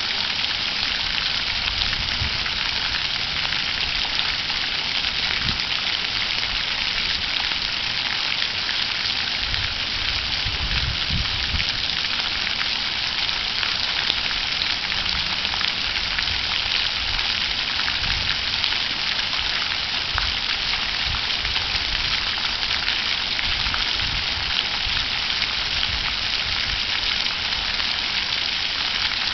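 Water fountain splashing steadily, a continuous hiss of falling water, with occasional low rumbles underneath.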